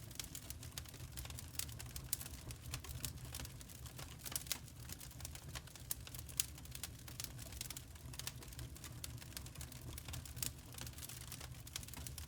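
Crackling wood fire: a steady low rumble with irregular snaps and pops, a few louder pops scattered through.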